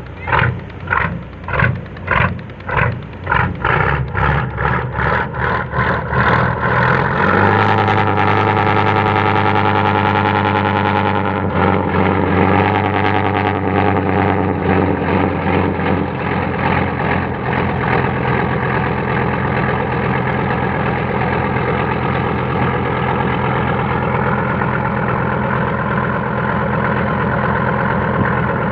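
Heavy engine with slow, loud beats about two a second that speed up over the first seven seconds, then running steadily.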